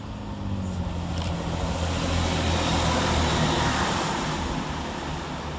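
Chiltern Railways Class 165 diesel multiple unit passing through the station, its diesel engine droning under the rush of the train, growing louder to a peak about halfway through and then fading as it goes by.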